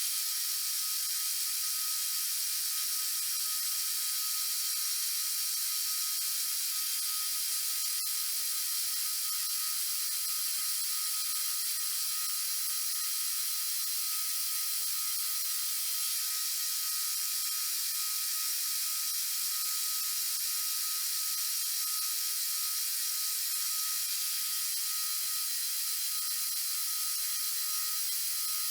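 Milling machine running steadily while drilling a bolt pattern in a flywheel: an even high hiss with a couple of steady tones.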